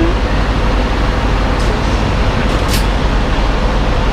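Semi truck's diesel engine running steadily, heard from inside the cab, with a couple of brief hisses about one and a half and two and a half seconds in.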